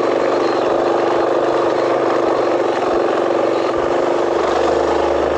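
KTM 500 dual-sport motorcycle's single-cylinder engine running steadily under way.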